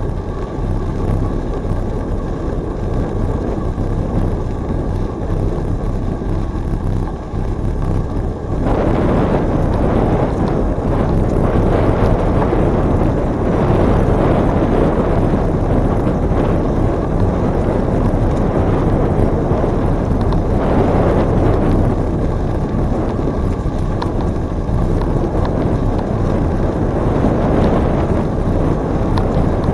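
Wind rushing over the microphone of a camera riding on a moving bicycle, with the hum of tyres on the trail underneath. The rush grows louder and fuller a little under nine seconds in and holds there.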